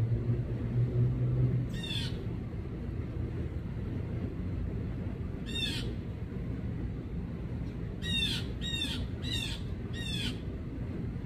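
Blue jay giving harsh, squawking calls: single calls about 2 and 5.5 seconds in, then four in quick succession near the end, over a steady low rumble.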